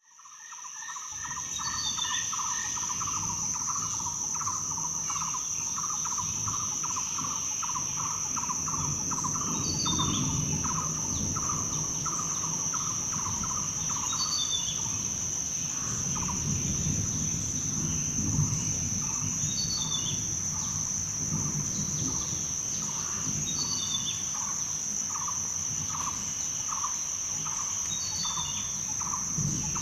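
Rainforest ambience fading in over the first couple of seconds: a steady, high insect drone, a short call repeated about twice a second, and a bird chirp with a falling note every four or five seconds, over a low rumble.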